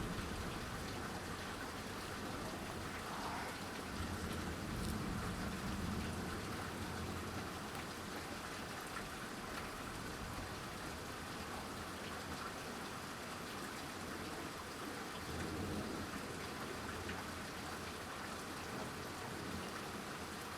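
Thunderstorm downpour falling steadily, with a low rumble swelling about four seconds in and again around fifteen seconds.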